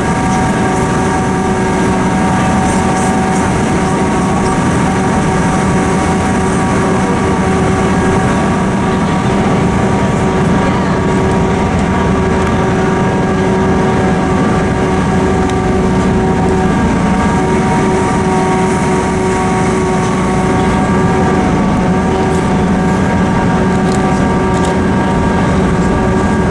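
Cog railway train running, heard from inside the passenger car: a steady engine drone and rumble with several constant whining tones that hold level throughout.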